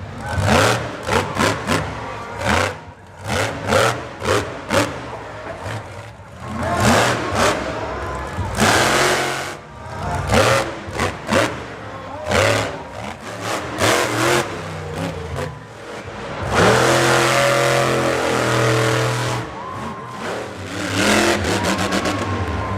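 Monster truck engine revving in many short, sharp bursts, then one long sustained rev about three-quarters of the way through.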